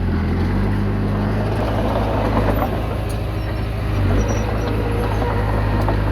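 Komatsu D20P bulldozer's diesel engine running steadily under load, its pitch shifting slightly about half a second in, with clanking from the machine's tracks and blade.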